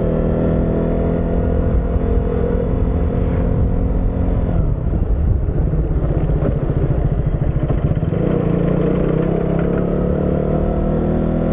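Motorcycle engine running under the rider on the move, with a low rumble of wind and road. Its pitch sags slightly, the note changes about four to five seconds in with a clear pulsing beat, and it picks up again after about eight seconds.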